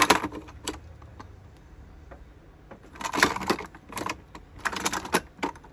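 Plastic toy train engines being handled and rattled: three clusters of quick clattering clicks, one at the start, one about three seconds in and one near the end, with no motor running.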